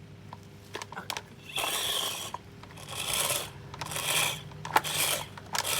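Cheap Homewell box fan running with a low motor hum, broken by a rasping scrape that repeats about once a second: the ticking, screeching fault of this failing fan.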